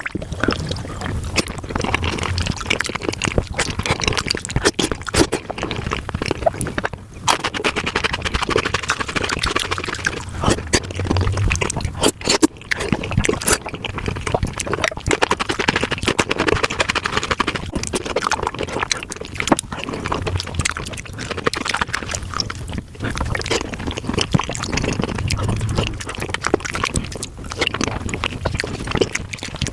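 Close-miked chewing, wet smacking and slurping of spicy Korean-style beef feet, sped up five times, so the bites and smacks run together in a rapid, continuous stream of clicks.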